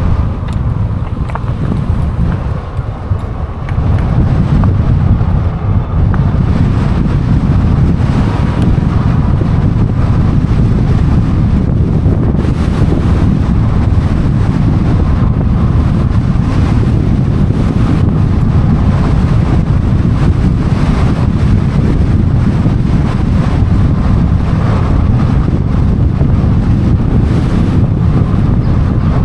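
Wind buffeting a camera microphone while riding an electric bike: a loud, steady low rumble that eases briefly a couple of seconds in, then holds steady.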